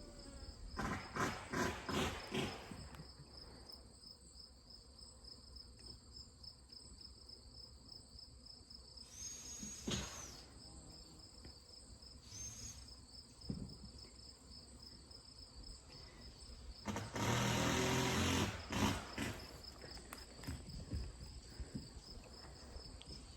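Steady high-pitched chirring of crickets in the background, with a louder noisy burst lasting about a second and a half near the end and a few knocks near the start.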